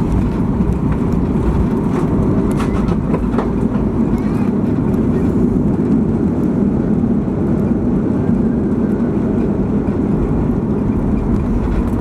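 Steady, loud cabin rumble of a Boeing 737-800 during the landing, heard from inside the cabin: engine and airflow noise with its weight in the low end and no clear change in level.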